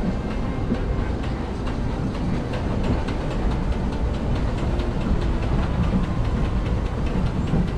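Disneyland Railroad's narrow-gauge steam train heard from a passenger car while under way: a steady low rumble of the cars rolling on the track, with a quick run of wheel clicks over the rail joints.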